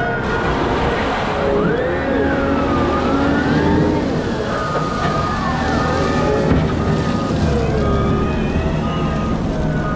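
Cat 972M XE wheel loader at work: its engine runs under changing load while whining drivetrain and hydraulic tones glide up and down in pitch. From about halfway in, a short high beep repeats every half second or so.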